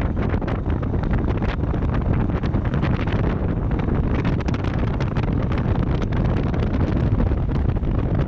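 Wind buffeting the microphone of a moving vehicle, over a steady low engine and road rumble.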